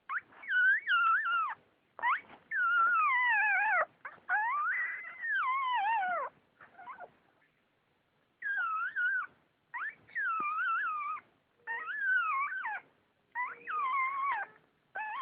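Newborn cocker spaniel puppies crying in high, wavering squeals, in bursts of one to two seconds each, with a pause of about two seconds midway.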